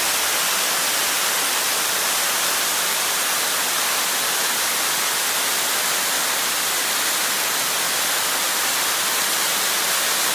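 Large waterfall heard close by: a steady, even rush of falling water, heaviest in the high range.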